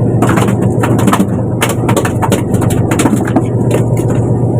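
Fishing boat's engine running with a steady low hum, with scattered knocks and clatters on board over it.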